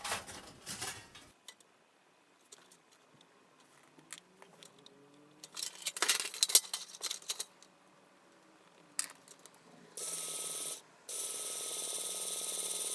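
Light metal clinks and rattles in several short spells, typical of thin metal fire-pit parts being handled. About ten seconds in a steady hiss starts, breaks off briefly and then carries on.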